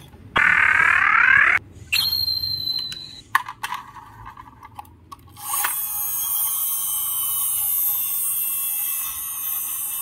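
Electronic sound effects from a battery-powered toy water tanker truck as its roof buttons are pressed: a short, loud rising tone, a held high beep, a few clicks, then a continuous electronic sound from about five and a half seconds in.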